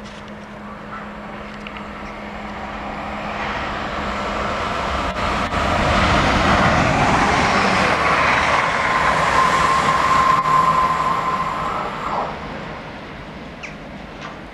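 Electric passenger train passing close at speed: wheel and air noise build up, peak for several seconds with a steady high whine, then fade away.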